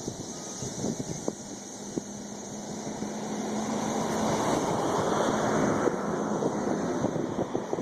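Cicadas buzzing in a steady high drone, while a passing vehicle's noise swells from about three seconds in and fades near the end. Wind buffets the microphone with low crackles.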